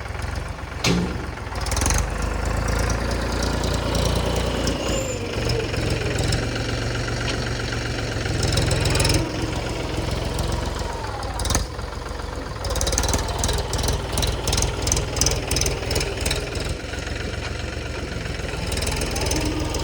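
Mahindra tractor's diesel engine running under load while its front loader works sand, the pitch swelling at times. A quick run of knocks and clatter comes about two thirds of the way through.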